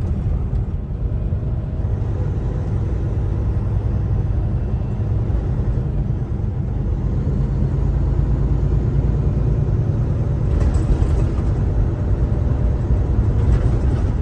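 Steady engine and road rumble inside a moving semi-truck's cab, a Kenworth T680, heavy in the low end.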